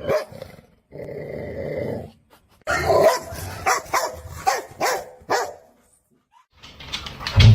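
A dog growling, then barking about half a dozen times in quick succession, with a loud thump near the end.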